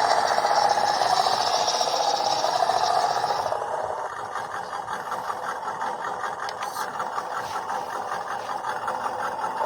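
Small electric motor and gearbox of a WPL B14km RC truck whining as it drives, with the drivetrain rattling. About three and a half seconds in, the whine drops off to a quieter, ticking run.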